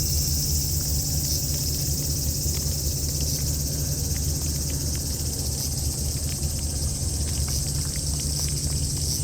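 Steady high-pitched chorus of insects, over a constant low rumble.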